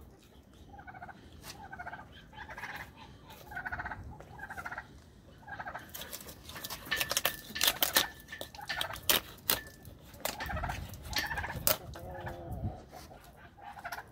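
Domestic fowl calling over and over in short rattling calls. About halfway through comes a run of sharp clicks and knocks, louder than the calls.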